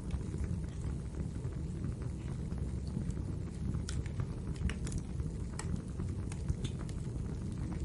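Wood fire burning in a fireplace: a steady low rumble of the flames with scattered sharp pops and crackles of burning wood, a handful of louder snaps in the second half.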